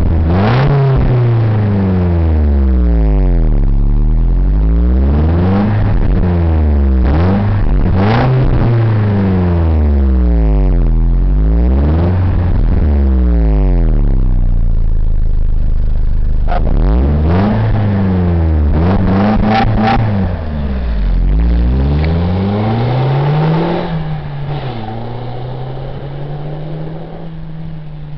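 Exhaust of a Mercedes E200 Kompressor's supercharged four-cylinder engine through a Reuter sport rear silencer, revved up and down again and again, about one blip every two seconds. It drops back to idle briefly about halfway through, is revved several more times, then settles to a quieter, steady lower note near the end.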